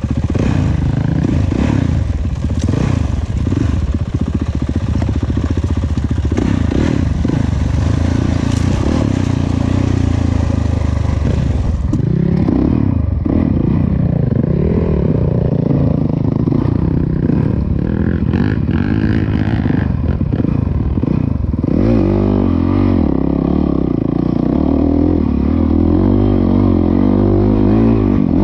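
Dirt bike engine running hard under riding, its pitch rising and falling repeatedly as the throttle is worked.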